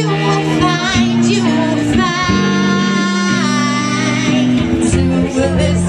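A woman singing with guitar accompaniment, her held notes wavering with vibrato over steady chords.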